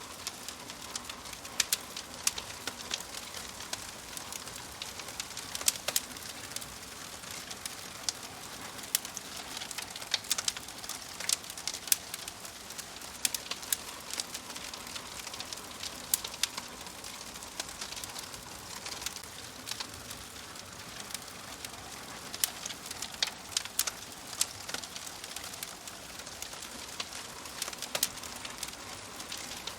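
Wood fire burning in a wood-burning stove: a steady soft hiss with frequent irregular crackles and sharp pops.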